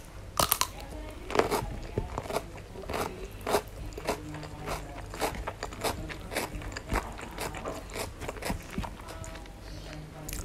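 Close-miked mouth sounds of someone eating raw vegetable lalapan and fried catfish: a crisp bite about half a second in, then a run of wet crunches as the food is chewed.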